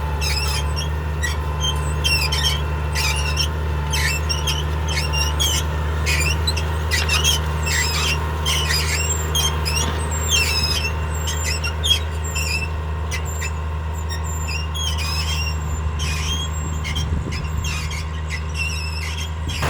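Case IH 1056 XL six-cylinder diesel tractor running steadily under load while ploughing. Over it the spring-loaded Överum plough squeaks and squeals in quick, irregular high chirps, like an old spring bed.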